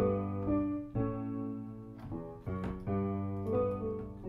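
Piano chords played one after another, a new chord struck about once a second and left to ring into the next.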